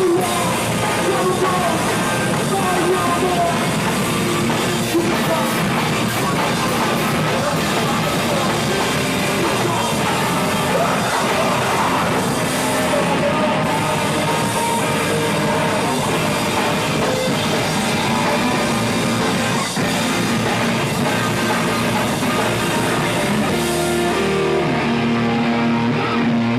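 Live rock band playing loud, with distorted guitars, drum kit and shouted vocals. Near the end the song winds down to a few held, ringing guitar notes.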